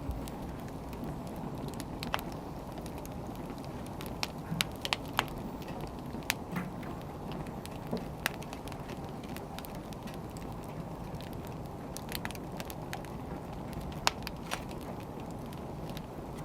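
Firewood burning: a steady low rush of flame with irregular sharp crackles and pops, several close together around four to five seconds in.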